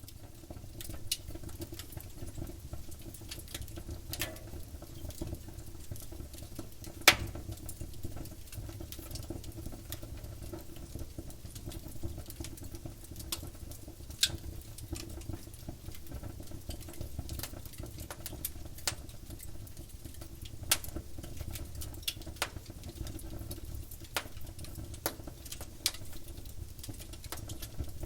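Campfire burning, its wood crackling and popping at irregular moments over a low steady rumble of the flames, with one loud pop about seven seconds in.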